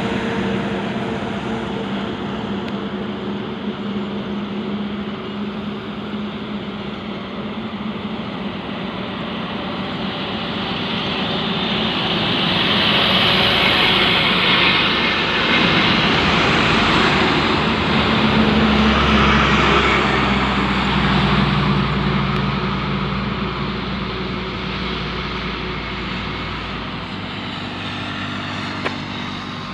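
Heavy vehicle engines and highway traffic running steadily. One vehicle grows louder to a peak in the middle and fades away toward the end, with a deep engine rumble as it goes.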